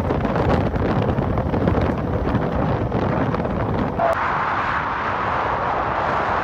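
Wind buffeting the microphone over the running noise of a moving vehicle. About four seconds in the sound changes abruptly to a steadier, higher hiss.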